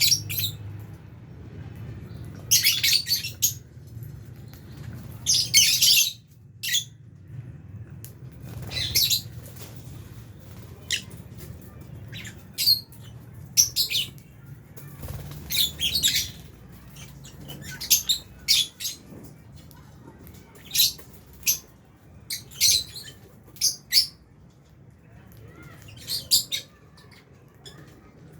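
A flock of lovebirds chirping and squawking in short, shrill calls that come every second or so at an uneven pace, over a low steady hum.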